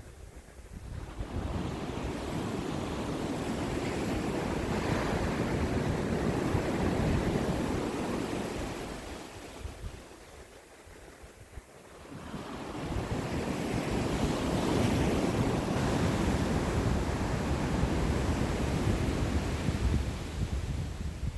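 Ocean waves breaking and washing up the shore in two surges: one builds over the first couple of seconds and ebbs away about ten seconds in, the next rises from about twelve seconds and carries on. Wind on the microphone adds a steady low rumble.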